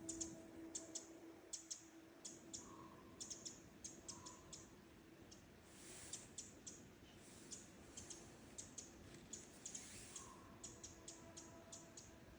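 Faint, high, short chirps or ticks from small birds, repeated irregularly a few times a second, with a few brief lower call notes now and then.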